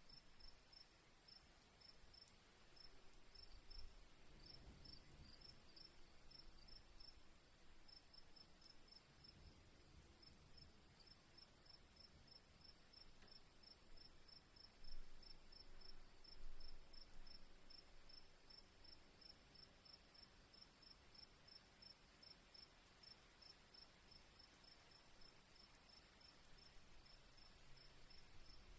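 Crickets chirping in a quick, even pulse, about three chirps a second, over a steady high insect trill. A few faint low rumbles come and go, the loudest about halfway through.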